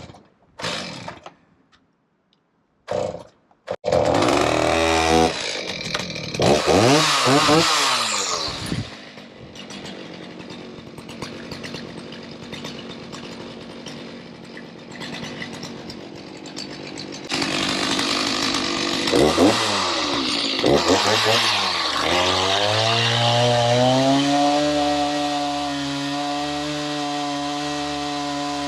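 Chainsaw pull-started with a couple of short pulls before it catches about four seconds in, then revved and left idling. Near the middle it revs up again and cuts into a wooden log, running steadily at speed toward the end.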